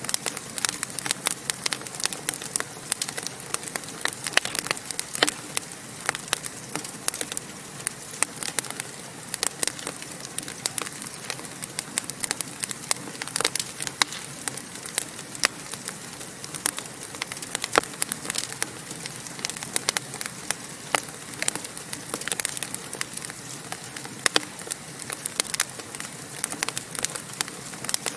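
Wood fire crackling in a fireplace: a steady hiss with many dense, irregular sharp pops and snaps.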